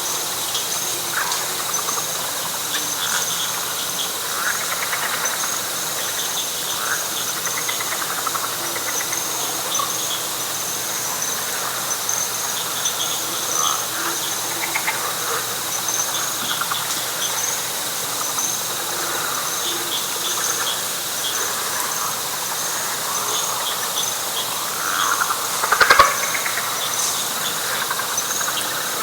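Night chorus of insects, a steady high pulsing trill, with frogs calling in short scattered notes beneath it. Near the end a louder call rises above the chorus, with a sharp click.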